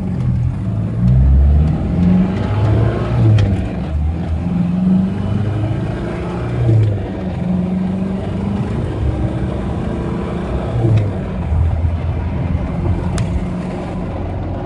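Mitsubishi 4D55 2.3-litre four-cylinder turbo diesel in a Ford Ranger, accelerating hard from a standstill, heard from inside the cab. The engine note climbs and falls back several times as it goes up through the gears.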